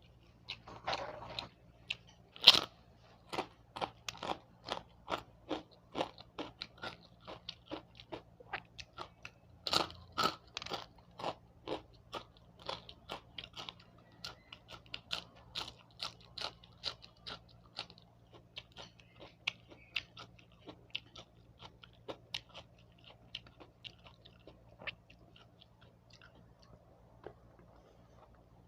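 Close-up chewing of crunchy fried food: a steady run of crisp crunches about two a second, louder in the first half and fading in the last several seconds.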